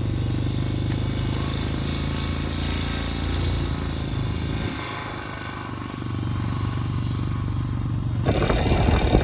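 An engine running steadily. It eases off about five seconds in and picks up again, and near the end the sound changes abruptly to a rougher noise.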